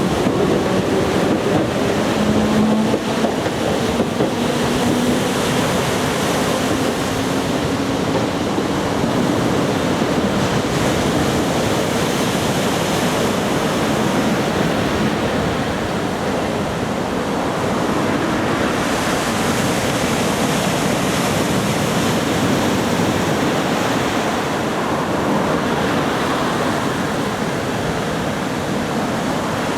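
Ocean surf from a typhoon swell, waves breaking and washing steadily, with wind on the microphone. A faint humming tone from a passing train fades out in the first few seconds.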